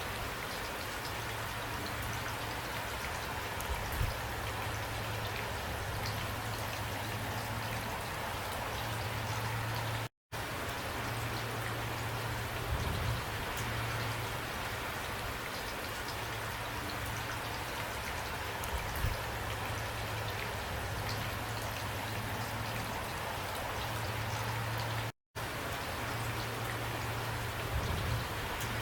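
Steady heavy rain falling, an even patter with a low steady rumble beneath it. The sound cuts out to silence for a split second twice, about ten and twenty-five seconds in.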